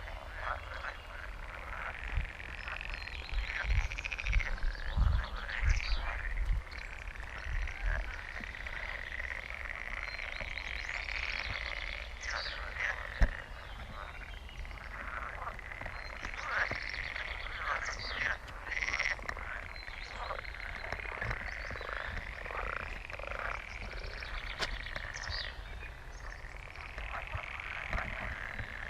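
A dense chorus of frogs croaking continuously over one another. A few low rumbles come between about two and eight seconds in, and one sharp click about halfway through.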